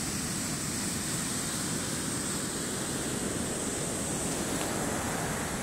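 Ocean surf washing steadily onto the beach, with wind rumbling on the phone's microphone.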